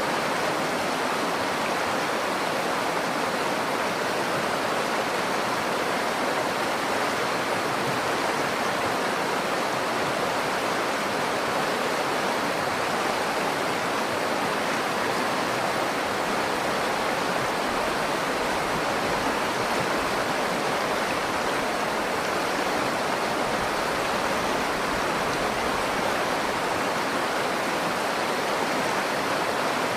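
Nakdong River water flowing, a steady, unbroken rush.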